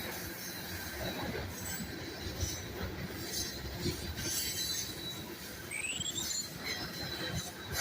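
Freight train of tank cars rolling past, steel wheels running on the rails with clicking and a thin, high wheel squeal. A short sliding squeal comes about six seconds in.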